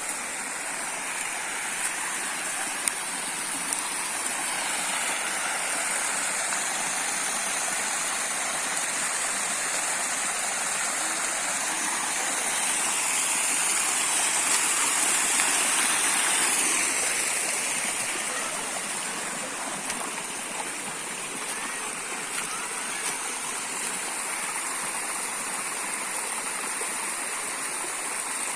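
Small waterfall splashing and rushing, a steady hiss of falling water that swells a little about halfway through.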